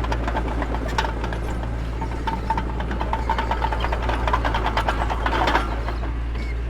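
Mini bulldozer's diesel engine running steadily, with frequent metallic clicks and rattles over it.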